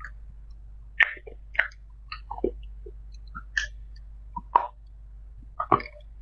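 A person chewing and biting food close to the microphone: a string of short, irregular clicks and bites, loudest about a second in and again past the middle, over a steady low hum.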